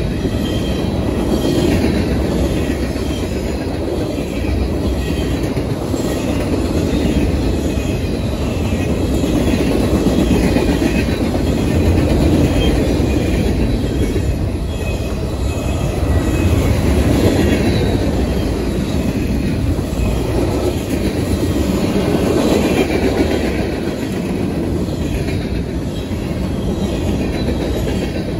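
Freight cars of a CSX manifest train (covered hoppers, boxcars and tank cars) rolling past: a steady rumble and clatter of steel wheels on the rails, with a faint squeal of wheels that comes and goes.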